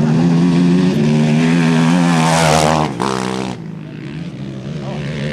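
Off-road race vehicle's engine at speed, rising in a loud rush as it passes about two and a half seconds in, then dropping in pitch and fading as it goes by. A steady engine hum runs underneath.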